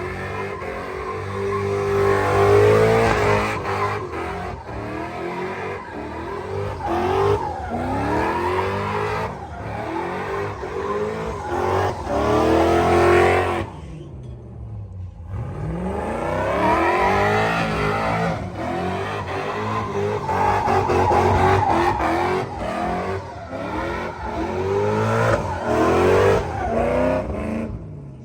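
Vehicle engine revved hard and let off again and again, its pitch sweeping up and down, with tire squeal as the truck slides. There is a brief lull about fourteen seconds in.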